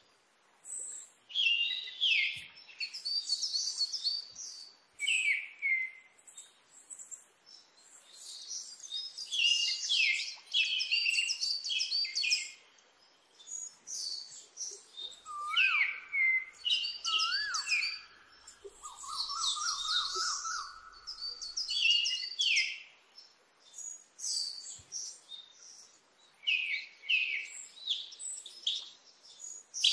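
Birds chirping and singing, dense high chirps and quick trills with many calls sweeping downward. About halfway through, a lower whistled call rises twice, followed by a lower trill.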